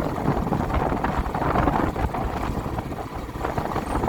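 A vehicle on the move, its engine running under steady road and wind noise buffeting the microphone.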